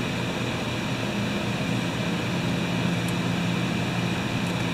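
Steady mechanical hum of a fan running, an even low drone with no change in pitch or loudness, and a couple of faint light clicks near the end.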